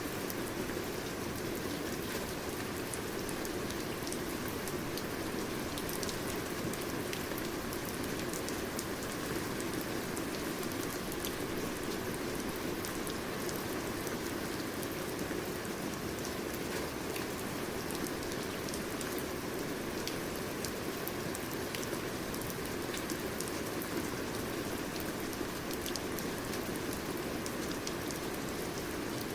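Steady, even rain falling on a surface, with a dense patter of drops throughout.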